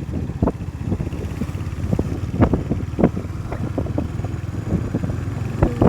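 Motorcycle running on the road with wind rushing over the microphone, a steady low rumble broken by irregular short knocks and clicks.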